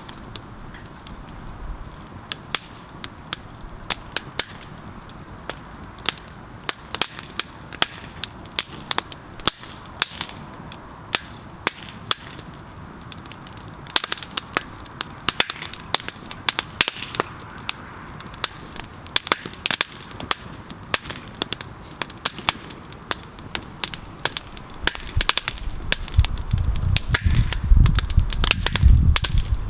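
Campfire crackling, with frequent sharp pops and snaps, several a second. A low rumble builds over the last few seconds.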